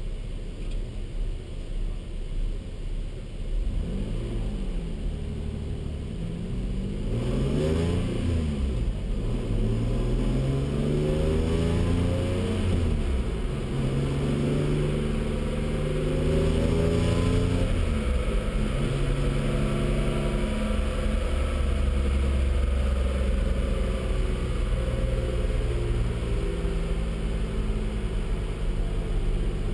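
Mazda 323's KLZE 2.5-litre V6, heard from inside the cabin on a chassis dyno: idling at first, then revved with its pitch rising and falling several times, and from about twenty seconds in held at a steady engine speed.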